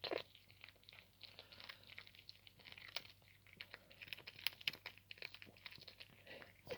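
A cat chewing a cooked chicken neck: faint, irregular crunches and clicks of bone and gristle being bitten.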